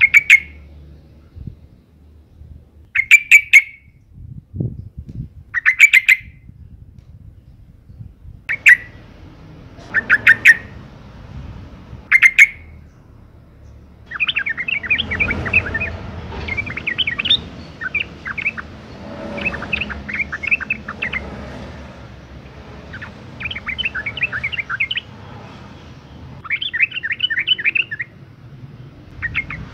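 Female yellow-vented bulbul (trucukan) calling. Short, loud bursts of notes come every two to three seconds, then from about halfway it breaks into continuous fast chattering. These are the breeding-condition calls used as a lure to make other bulbuls sing.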